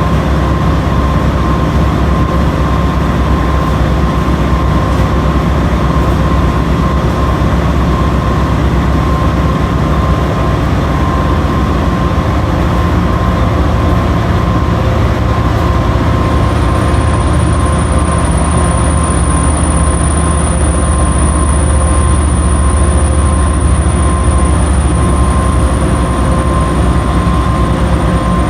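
Washing machine running with a loud, steady low rumble and a constant whine over it.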